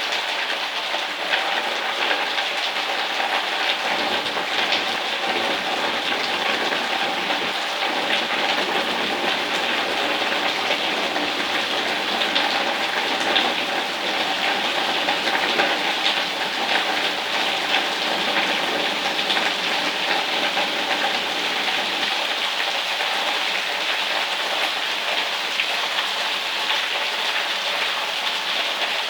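Steady rain falling, a dense even patter of many drops that keeps up at the same strength throughout.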